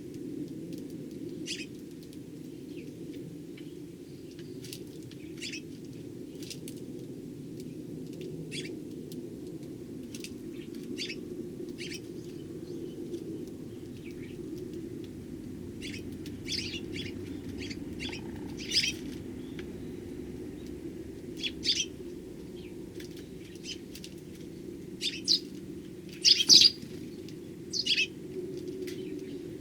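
Eurasian tree sparrows chirping: short, scattered chirps that come thicker and louder in the last few seconds.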